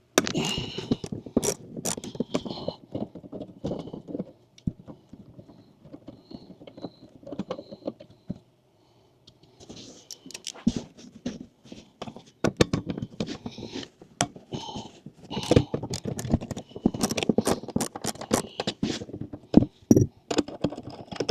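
Hands working parts into place: irregular clicks, knocks and scraping of plastic and metal pieces being handled and fitted, with a short lull midway.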